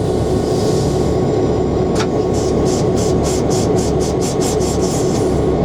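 EMD BL2 diesel locomotive's V16 567 engine running steadily in the cab while easing along at low speed. A sharp click comes about two seconds in, followed by a fast high ticking, about four a second, for roughly three seconds.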